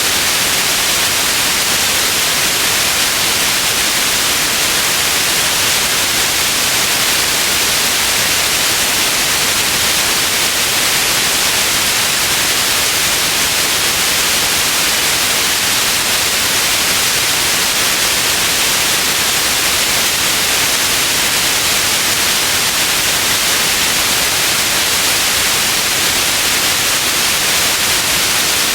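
Steady white noise: an even, unchanging hiss, brightest in the high range, with no breaks or events.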